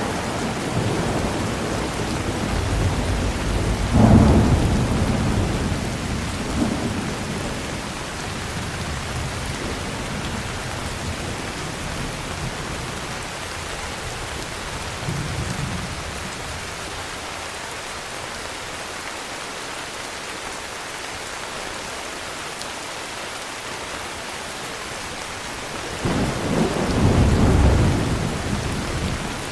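Steady heavy rain with rolls of thunder: a rumble from the start that peaks in a sharp crack about four seconds in, a weaker roll around the middle, and another rumble swelling near the end.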